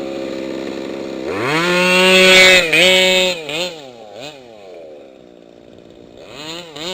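Small two-stroke engine of a gas-powered RC car idling, then revved up about a second in and held high for a couple of seconds. It then gives several quick throttle blips, drops back to idle, and is blipped again near the end.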